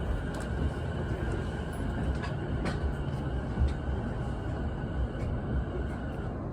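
Sotetsu Line electric train running between stations, heard from inside the passenger car: a steady low rumble of wheels on the track with occasional clicks.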